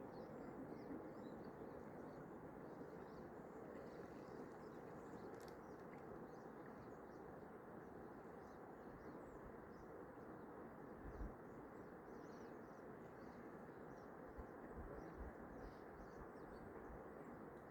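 Faint, scattered high chirps of small birds over a steady low outdoor hiss, with a couple of soft low bumps about two-thirds of the way in.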